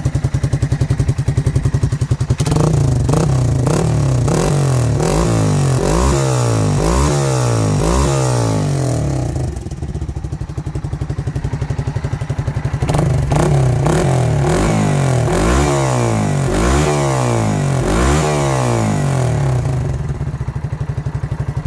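Yamaha TW225E's single-cylinder four-stroke engine through a Supertrapp muffler, idling and then revved free in two runs of quick throttle blips about one a second, dropping back to idle between them and near the end.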